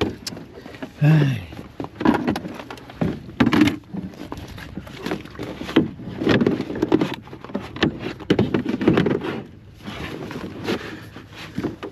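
Repeated knocks and bumps of handling inside a canoe, with a brief voice sound about a second in.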